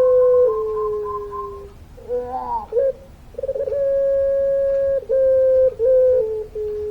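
Puter pelung dove giving its long drawn-out coo: a held note that steps down in pitch near its end. The first call ends about 1.7 s in, a short wavering note follows, and a second long call starts about 3.5 s in and runs for about four seconds.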